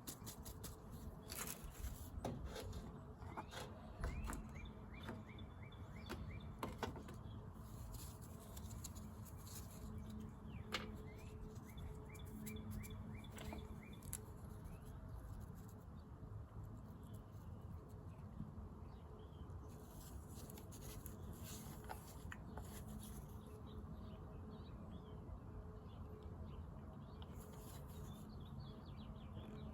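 Faint bird chirps over a low steady hum, with scattered light clicks and taps during the first several seconds.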